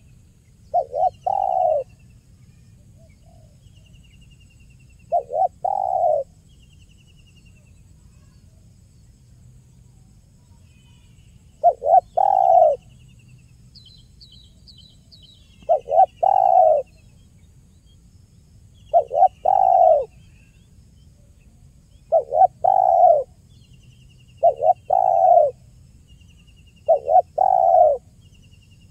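Spotted dove (tekukur) cooing over and over: eight phrases, each of two or three quick notes running into a longer coo, about every three to four seconds. A small bird chirps faintly and repeatedly in the background.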